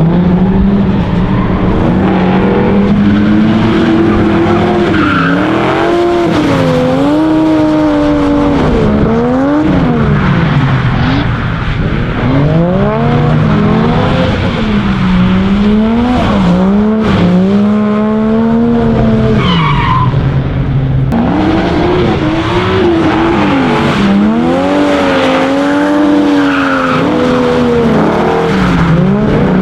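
Drift car engine revving hard up and down through repeated throttle blips and shifts, with tyres skidding and squealing on a wet track.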